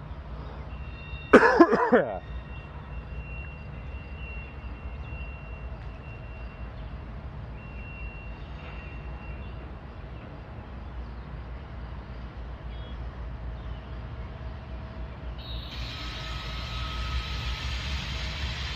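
Diesel locomotives of an approaching freight train give a steady low rumble that grows slightly louder, with more hiss from about three-quarters of the way in. A short, loud pitched blast comes about a second in.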